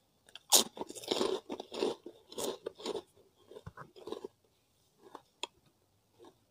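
Crunchy kerupuk (Indonesian cracker) being bitten and chewed close to the microphone: a run of loud, sharp crunches over the first few seconds, thinning out to a few softer crunches, clicks and taps near the end.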